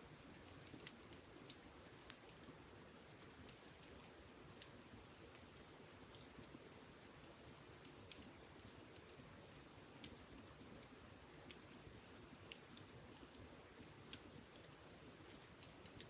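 Wood campfire crackling faintly, with irregular sharp pops, a few louder ones around eight, ten and eleven seconds in, over a steady background hiss.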